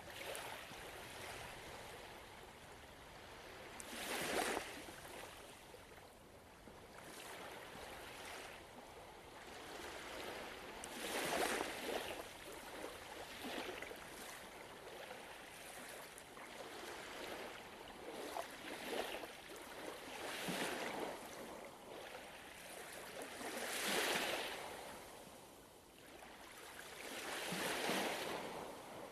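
Gentle ocean waves washing in on a shore, each swell rising and fading, with the biggest breaking about four seconds in, near twelve seconds, at about 24 seconds and again near the end.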